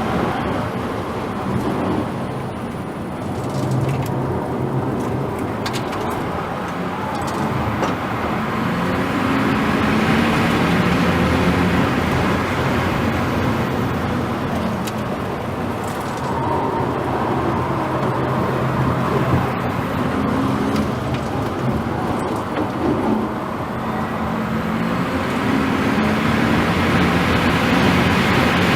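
A car driving at speed: road and wind noise with a low motor tone that rises and falls over several seconds.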